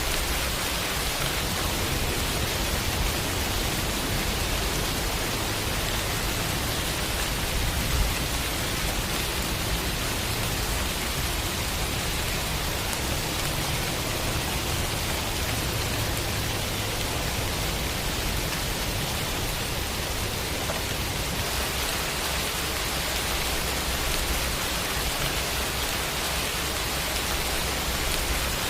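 Steady rain sound effect: an even hiss of rainfall with a low rumble underneath, and a single brief louder spot about eight seconds in.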